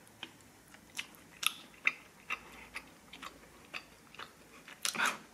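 Close-up chewing of a mouthful of freshly cooked white rice, with irregular small sharp clicks and smacks about once or twice a second; the rice is a little hard. A short louder rush of noise comes near the end.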